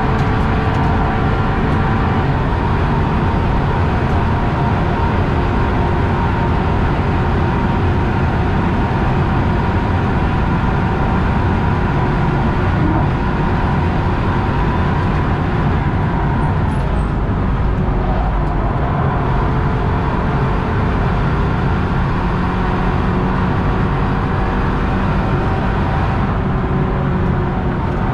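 BMW 328i F30's turbocharged four-cylinder engine running under load at speed, with steady road and wind noise, heard inside the stripped, roll-caged cabin. The engine note dips and climbs again a little past the middle.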